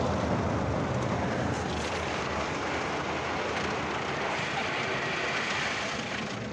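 Mark VII ChoiceWash XT automatic car wash running over the car, a steady rushing spray-and-machinery noise heard from inside the cabin.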